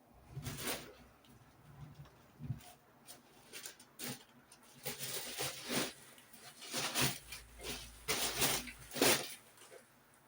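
A string of irregular rustles and knocks from things being handled, some of them quick clusters.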